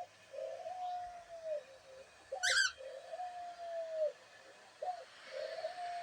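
Pet dove cooing: three long, level coos, each opened by a short rising note and repeated every couple of seconds. A brief high squeak comes about halfway through.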